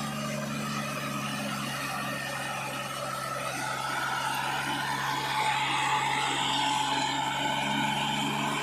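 Diesel engine of heavy earth-moving machinery running steadily under load, its pitch rising a little partway through.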